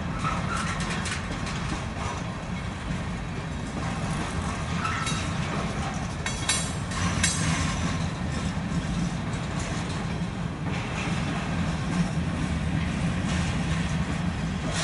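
Freight cars of a CSX manifest train, mostly empty centerbeam flatcars, rolling past on the rails with a steady rumble of wheels. A few sharp clanks come about five to seven seconds in.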